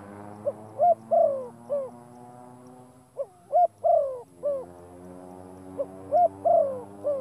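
A bird cooing a repeated four-note phrase, three times at even spacing: a short note, another short note, a longer falling note, then a short last note.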